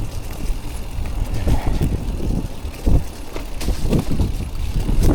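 Mountain bike rolling down a rough trail, its tyres rumbling over the ground with several sharp knocks and rattles from the bike, and wind buffeting the microphone.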